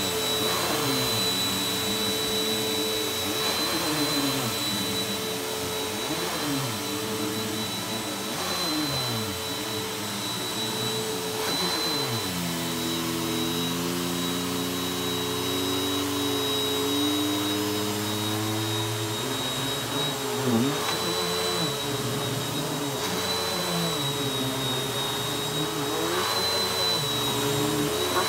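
Vacuum cleaner running over a rug, its motor pitch dipping and rising as it works, then holding steady for several seconds midway.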